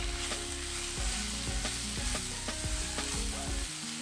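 Onions, spice powders and curry leaves sizzling in oil in a nonstick kadai over medium flame, while a wooden spatula stirs and scrapes through them in quick strokes about three a second.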